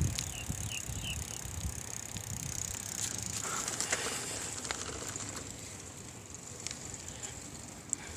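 Bicycle being ridden, with a low tyre rumble and scattered light clicks and rattles under a steady high hiss. Three faint high chirps sound in the first second.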